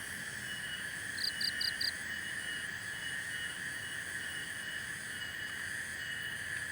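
Night chorus of insects and frogs: a steady dense trilling drone, with a higher call pulsing on and off over it. A little over a second in, four quick high chirps sound in a row.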